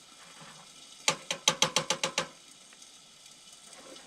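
A quick run of about nine sharp mechanical clicks, like a ratchet being turned, starting about a second in and lasting just over a second, over a faint sizzle of food frying in a pan.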